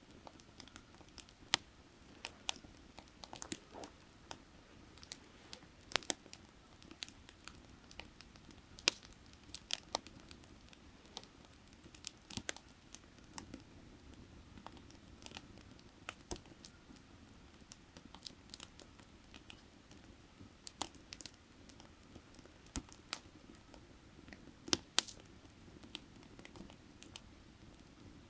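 Burning firewood crackling, with sharp pops and snaps coming at irregular intervals. A faint, steady low rush runs underneath.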